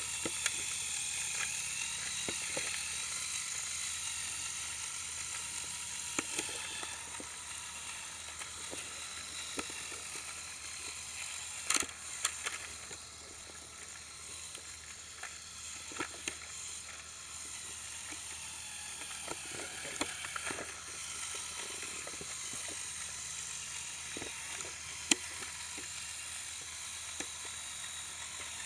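Electric motors of a remote-controlled Lego Technic trial truck whining steadily as it crawls, with scattered sharp plastic clicks and knocks from the drivetrain and chassis working over rough ground, the loudest about 12 seconds in and near the end.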